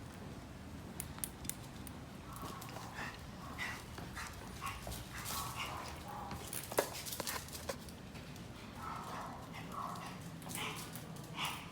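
Toy poodle giving a series of short, high-pitched excited cries, with scattered sharp clicks between them; she is worked up and eager to reach the dog run.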